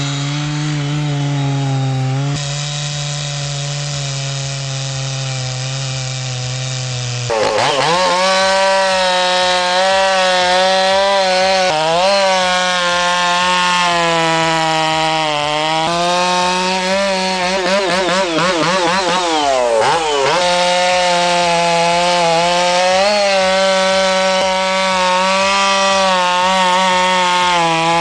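Two-stroke chainsaw running at full throttle and cutting through thick hardwood at a steady pitch. About seven seconds in, a louder, higher-pitched saw takes over, and its note dips and recovers again and again as the bar is buried in the cut and comes back out.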